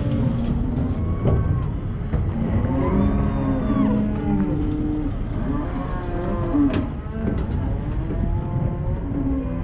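Cattle on a stopped cattle truck mooing, many animals calling over one another in long, overlapping moos.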